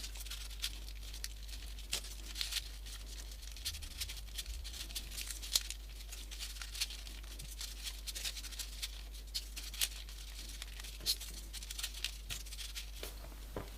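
Folded paper origami pieces rustling and ticking as they are slotted one by one onto a modular 3D origami model: a scatter of light, irregular paper clicks and crinkles.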